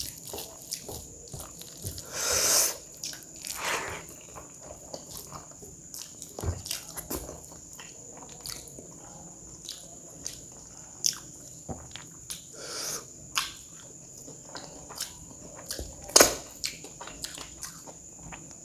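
Close-miked chewing of a mouthful of rice and curry: wet mouth clicks and smacks with a few crunchy bites. A couple of louder noisy swells come in the first four seconds, and a sharp click about sixteen seconds in.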